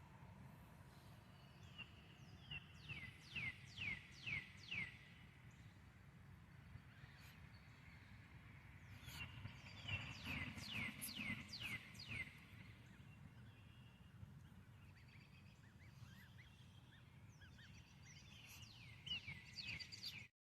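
A songbird singing: three bouts of quick notes, each note sweeping down in pitch, over a faint steady low rumble.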